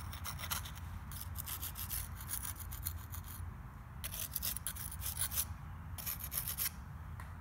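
Quick rubbing or scraping strokes by hand on a tractor engine part. The strokes run steadily for about three seconds, then come in two shorter bursts with pauses between.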